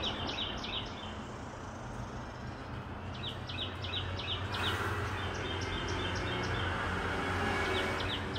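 A songbird singing in four bursts of quick, repeated high chirps a couple of seconds apart, over a steady low background hum; from about halfway a soft rushing noise builds.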